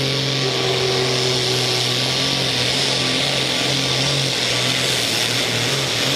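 Pulling tractor's engine running hard at high, nearly steady revs, loud and continuous.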